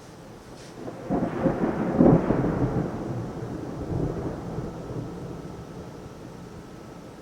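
Thunder: a crackling peal breaks about a second in and is loudest near two seconds. It swells again around four seconds, then rumbles away over a steady hiss of rain.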